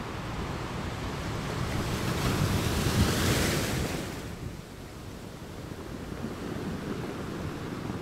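Calm ocean surf on a sandy beach. A small wave builds and breaks with a hiss about two to four seconds in, then falls away, over a steady low rumble of the sea.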